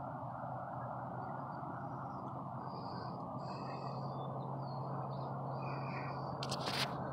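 Small birds chirping a few short times over a steady low background rumble, with a few sharp clicks near the end.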